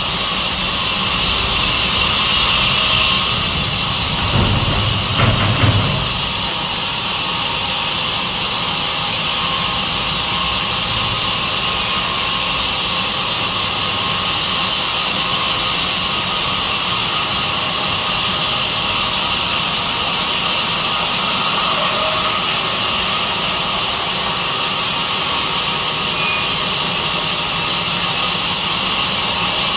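Sawmill saw running steadily with a constant high-pitched whine. There is a brief louder clatter about five seconds in.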